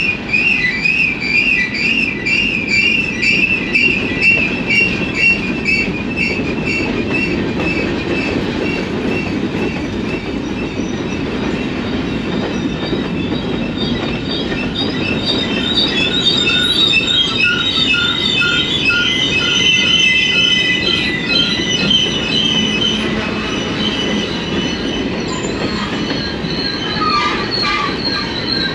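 Train rolling along the track: its wheels squeal in high, wavering tones over a steady rumble of the cars, with several squeals sounding together in the second half.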